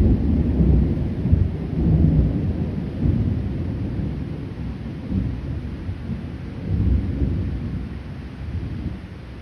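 Rolling thunder from a storm with no rain: a deep rumble that swells a few times and gradually dies away.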